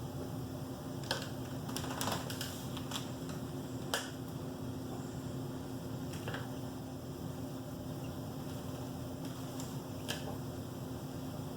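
Scattered sharp clicks and ticks, about ten of them at uneven intervals, the loudest about four seconds in, over a steady electrical hum.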